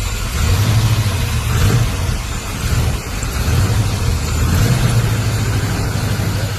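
Classic Chevy truck's engine pulling under acceleration on a test drive, growing louder about half a second in, with rushing wind and road noise over it.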